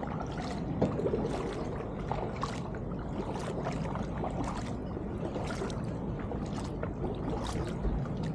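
Kayak paddle blades dipping and pulling through the water in a steady rhythm, a splash a little more often than once a second, over a low steady rumble.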